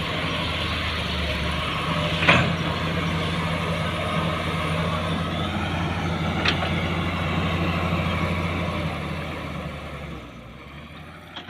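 Tractor engine running steadily, with a sharp clack about two seconds in and a lighter one about six seconds in; the engine sound fades away over the last two seconds.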